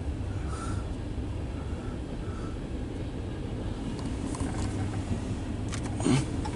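Loaded coal train's freight cars rolling past: a steady low rumble with faint, irregular high squeaks, and a short louder bump about six seconds in.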